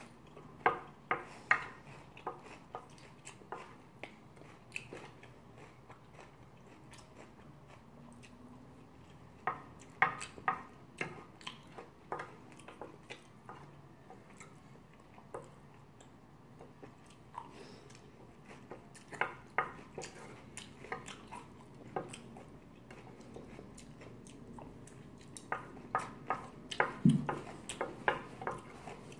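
Close-miked chewing of curry rice, with wet mouth clicks that come in clusters of a few seconds between quieter stretches. Between mouthfuls a wooden spoon scrapes and taps against a ceramic plate, and there is a brief low hum near the end.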